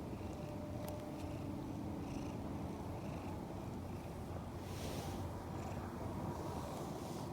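Cat purring steadily and close to the microphone, with a brief rustle about five seconds in.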